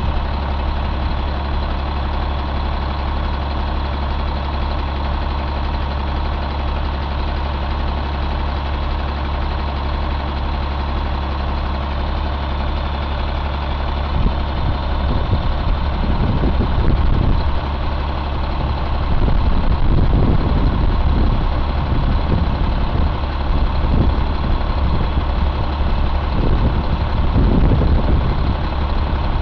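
Caterpillar C9 inline-six diesel engine idling steadily. From about halfway, irregular louder low rumbling comes and goes over the idle.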